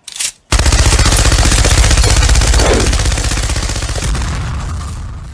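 A loud, fast rattle of evenly spaced strikes, many each second, like rapid fire or a drumroll, fading away near the end.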